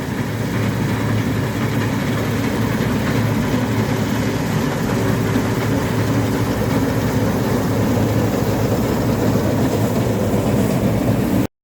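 Heavy diesel engine of harvest farm machinery running steadily with a low, even drone; the sound cuts off suddenly near the end.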